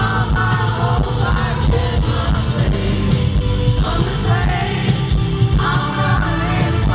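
Live pop music: a male lead singer sings drawn-out phrases over a band with a heavy, steady bass and beat.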